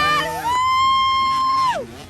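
A high-pitched cheering yell held on one note for about a second, its pitch falling away as it ends.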